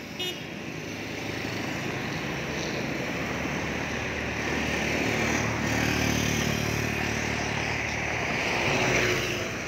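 Road traffic passing on wet pavement: engines running and tyres hissing through the water. The sound swells through the middle and peaks near the end as a vehicle goes by, then eases.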